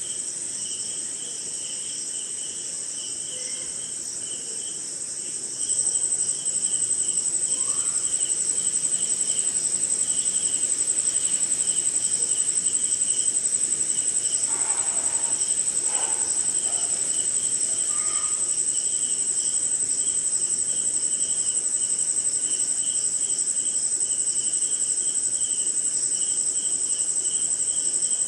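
Night insect chorus: crickets give a steady high-pitched trill, and a second insect chirps lower down in a quick, pulsing rhythm. The high trill gets louder about six seconds in, and a few faint short calls rise out of the chorus near the middle.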